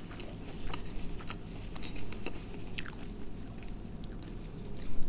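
A man chewing fried food with his mouth closed: soft, irregular crunches every few tenths of a second, over a low steady hum.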